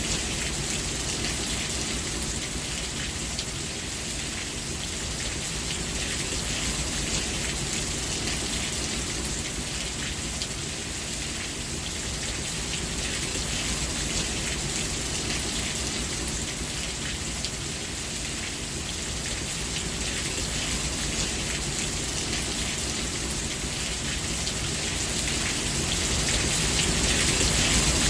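Steady rain falling, an even hiss of drops that grows somewhat louder near the end.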